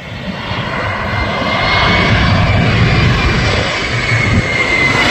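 Jet airliner passing low overhead, its engine roar swelling over the first couple of seconds and then holding loud, with a high whine that slowly falls in pitch.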